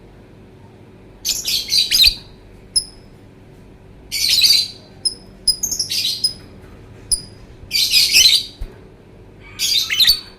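Lovebird calling in about five bursts of harsh, high, rapid chattering, each under a second long, with short sharp single chirps in between.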